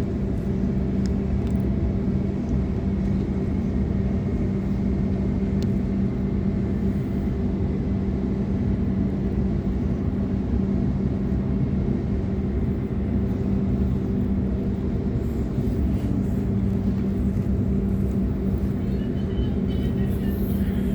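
Waratah A-set electric multiple unit heard from on board while running: a steady rumble with a constant low hum. Faint high-pitched tones come in near the end.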